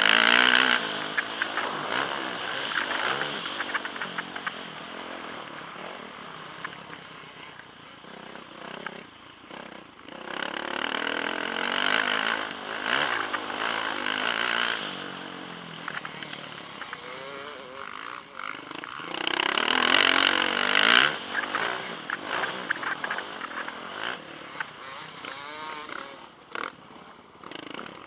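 Motocross bike engine revving hard and backing off in turn, heard from a helmet camera. Its loudest full-throttle pushes come at the very start, from about ten seconds, and around twenty seconds, with quieter off-throttle stretches between.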